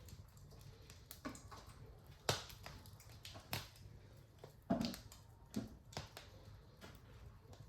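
Wood fire in a fireplace crackling: irregular sharp pops and snaps over a faint low rumble, the loudest pops a little over two seconds in and again near the middle.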